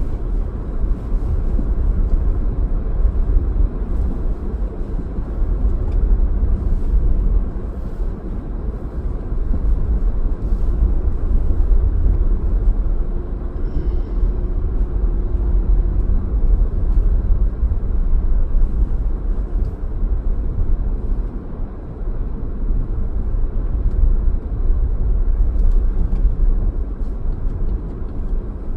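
Steady low rumble of a car driving, road and engine noise, with a faint steady tone for a few seconds in the middle.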